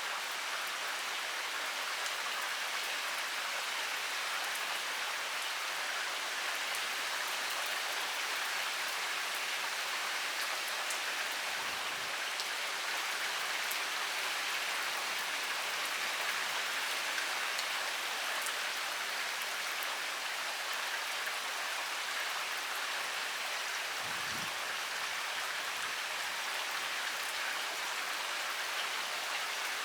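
Heavy rain pouring steadily: a dense, even hiss of rainfall with fine, scattered drop ticks throughout.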